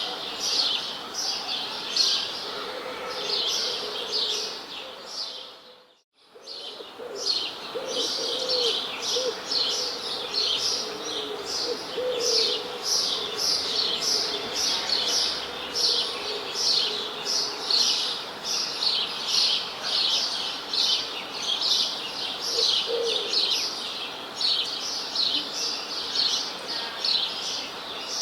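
A chorus of small birds chirping: quick, high chirps repeated about twice a second, with fainter, lower calls underneath now and then. About six seconds in, the sound fades away to silence for a moment and then comes back.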